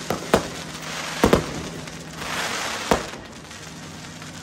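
Fireworks going off: about five sharp bangs, two close together just past a second in, with a stretch of hiss around two and a half seconds in.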